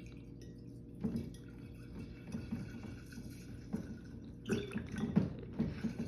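Liquid poured from a bottle into a container, glugging in irregular pulses that start about a second in and come thicker near the end.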